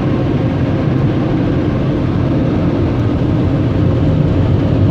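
Car wash dryer blowers forcing air over the vehicle, heard from inside the van's cabin as a loud, steady rush that grows slightly louder.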